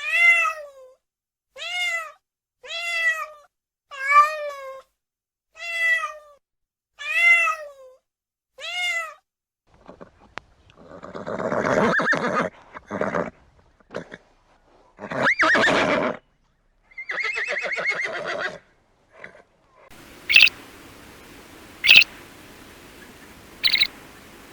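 A sequence of different animal calls. First come eight short, evenly spaced calls that rise then fall in pitch. Next come longer, louder, rougher calls about midway. Near the end there are sharp, short high calls over a steady hiss.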